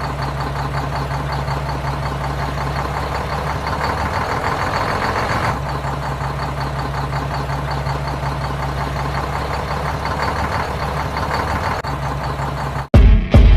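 An engine idling steadily with a low, even hum, cutting off suddenly near the end as a louder sound takes over.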